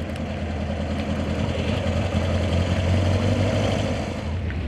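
Car engine running with a steady low rumble, swelling louder through the middle and easing slightly near the end.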